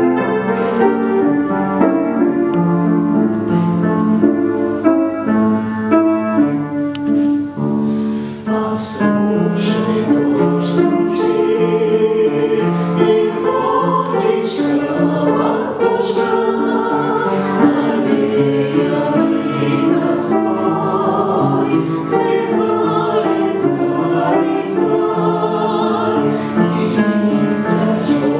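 Music: a choir singing a song, with instrumental accompaniment.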